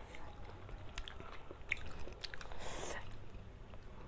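Close-miked chewing and mouth sounds of people eating, with scattered sharp wet clicks and a brief noisy burst about two and a half seconds in.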